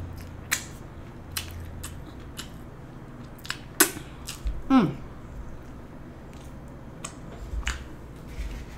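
Close-up mouth sounds of a person chewing a veggie burger, with scattered wet clicks and smacks. About four seconds in comes a short falling 'mm' from the voice.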